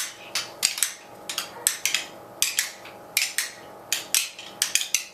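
Several children tapping rhythm sticks in a loose, uneven beat, about two or three taps a second, with no singing.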